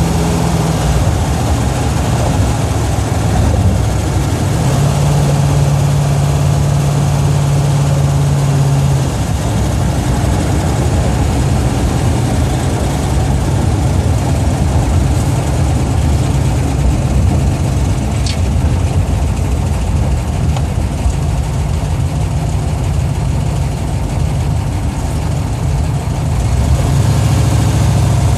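A Plymouth Duster's 440 big-block V8 heard from inside the cabin while driving. It gives a steady low engine drone whose pitch steps up and down a few times as speed and throttle change.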